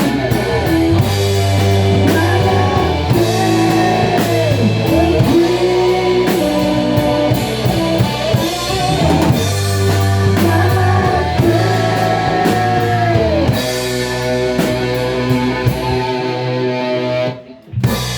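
Rock band playing: guitar, drum kit and steady low bass notes, with a melodic line sliding up and down over them. Near the end the band stops abruptly for a short break, then comes back in.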